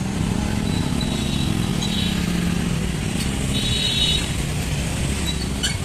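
Street traffic: motorcycles and cars passing, with a steady engine rumble. A brief high-pitched tone comes about two-thirds of the way through.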